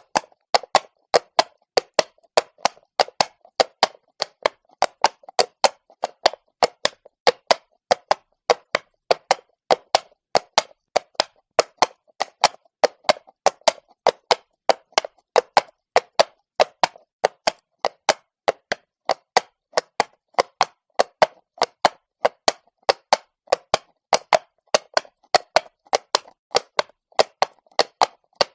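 A horse's hooves striking stone at a walk: a steady clip-clop of sharp knocks, about three a second.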